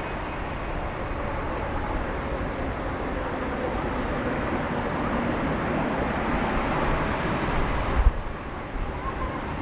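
Boeing 777 jet engines rumbling on landing approach, the roar slowly building, with a sudden low thump about eight seconds in after which it is quieter.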